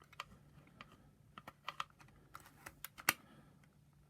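Scattered light clicks and taps of hands working the plastic housing of a Shark power nozzle, pressing the motor wires down into their notches, the loudest click about three seconds in. A faint steady low hum runs underneath.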